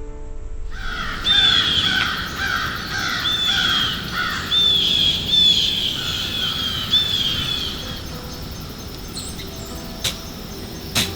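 A flock of birds calling, many repeated calls overlapping for about seven seconds, then two sharp clicks near the end.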